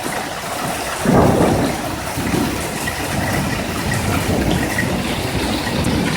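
Hail falling steadily in a long, heavy hailstorm, a dense even hiss and patter. A low rumble of thunder swells about a second in.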